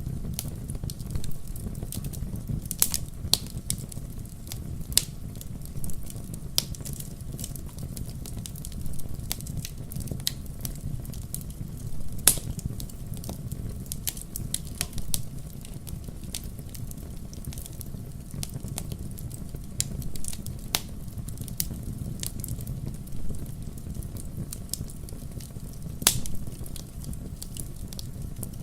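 Wood fire crackling in a fireplace: a steady low rumble of flames with irregular sharp pops and snaps. The loudest pops come about twelve seconds in and near the end.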